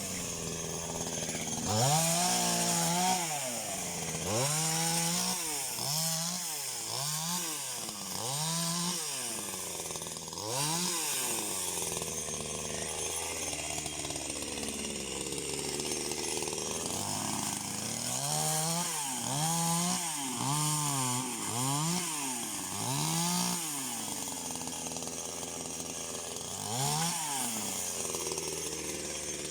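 Two-stroke chainsaw revving up and dropping back again and again, about once a second, in two runs of revs with a steadier low-running spell between them and one last rev near the end.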